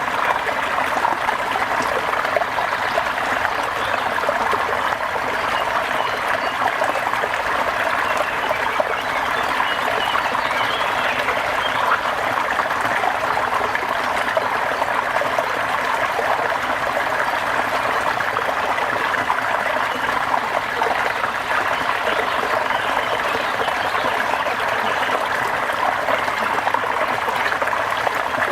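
Steady rain falling, a dense, even patter of drops with no breaks.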